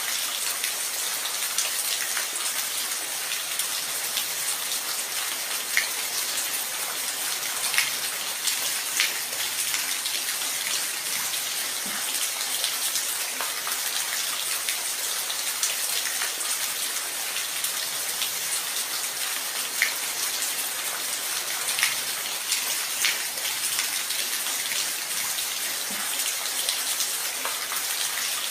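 Steady rain falling, an even hiss with scattered louder individual drops ticking on a nearby surface.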